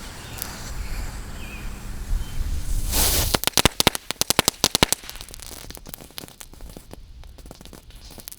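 Small consumer firecrackers going off: after about three seconds of steady low noise, a rapid string of sharp cracks starts, several a second for about two seconds, then thins to scattered pops.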